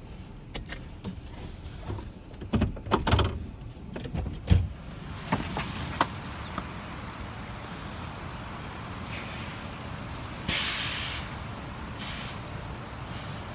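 Vehicle sounds: a run of knocks and clunks, the loudest about four and a half seconds in, then a steady low rumble with a short hiss about ten and a half seconds in and a fainter hiss near the end.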